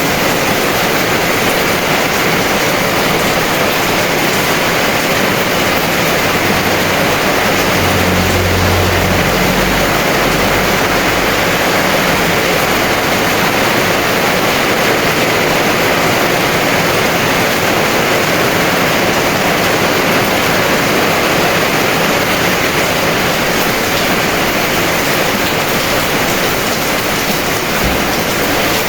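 Heavy rain pouring steadily, a dense even hiss, with a brief low rumble about eight seconds in.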